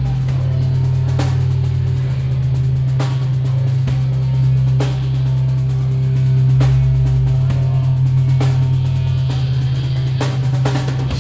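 Live metal band playing an instrumental passage without vocals: drum kit hits over low, sustained bass and guitar chords.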